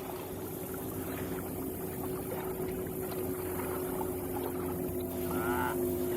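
Motorboat engine running with a steady hum, slowly growing louder.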